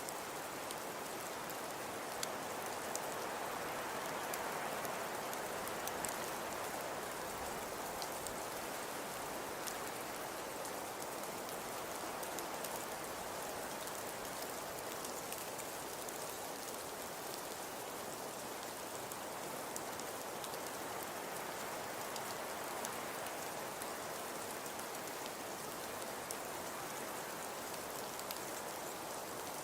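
Wood fire crackling in a fireplace: a steady soft hiss with many small scattered pops and snaps.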